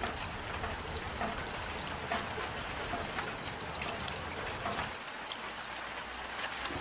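Rain falling: a steady hiss with scattered single drops ticking, and water trickling.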